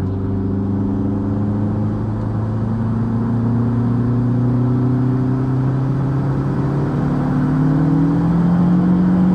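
Big-turbo 1.8T 20-valve four-cylinder engine of a Mk2 Golf pulling hard under boost, revs climbing slowly and steadily as in a long pull in a high gear, getting slightly louder.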